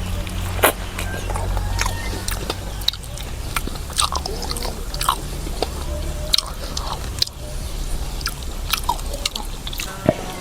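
A person chewing and biting food close to the microphone, with wet mouth clicks and smacks coming irregularly throughout, over a steady low hum.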